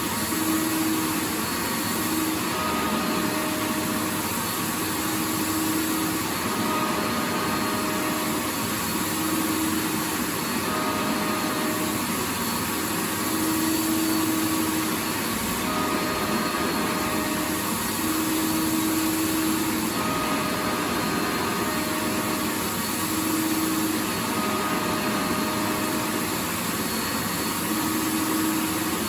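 Vacuum cleaner running steadily: a continuous rushing noise from the motor and airflow, with a faint hum that fades in and out every few seconds.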